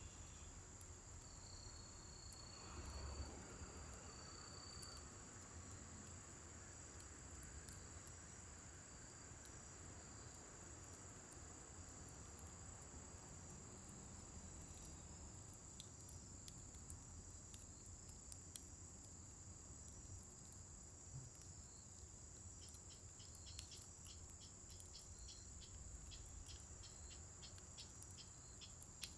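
Faint crackling and popping of a scrap-wood bonfire in a fire pit, the pops coming more often near the end, over a steady high-pitched trill.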